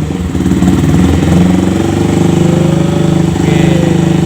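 Yamaha Verza 150's single-cylinder four-stroke engine running through a replica RCB aftermarket exhaust with freshly replaced silencer packing. It is held just above idle on light throttle, with a slight rise and fall in engine speed a couple of seconds in. The note is somewhat bassy.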